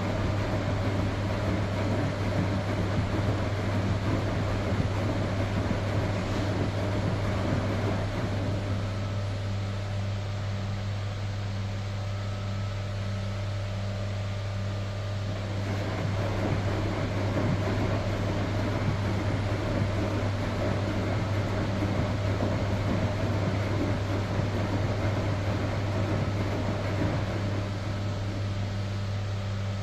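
Electrolux Professional WN6-20 commercial washing machine agitating its load, over a steady low hum. The running noise is louder at first, drops quieter about eight seconds in, and picks up again around the middle before easing near the end.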